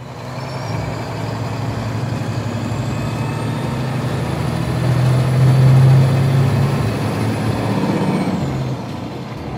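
Motor vehicle engine sound effect running steadily, growing louder to a peak about halfway through and then easing off.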